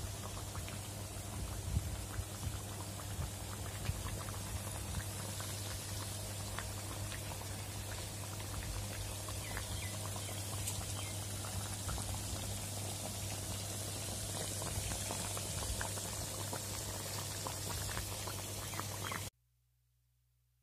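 Chicken cooking in a pan, bubbling and crackling steadily with many small pops over a low hum. It cuts off suddenly near the end.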